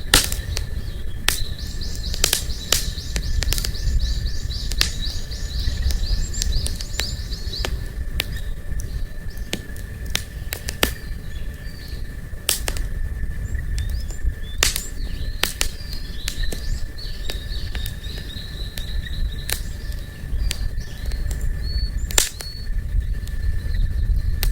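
Wood campfire crackling, with irregular sharp pops over a low steady rumble. In the background a bird calls in quick runs of repeated high notes, twice.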